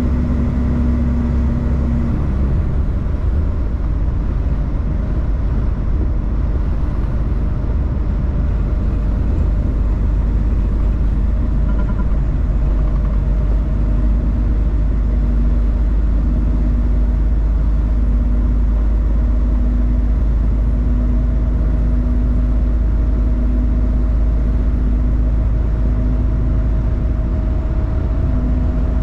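Delivery truck driving on the road: a steady low drone of engine and road rumble, with a faint hum that comes and goes.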